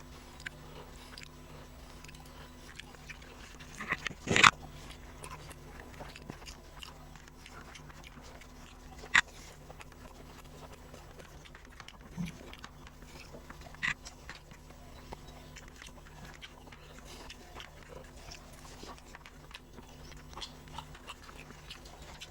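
A person eating close to the microphone: soft chewing and mouth smacks with scattered clicks, one louder sharp sound about four seconds in and two more clicks later, over a steady low hum.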